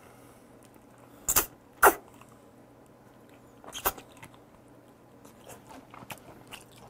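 Close-miked chewing of raw deep-sea shrimp: two loud mouth smacks just over a second in, a third just under four seconds in, and softer mouth clicks after.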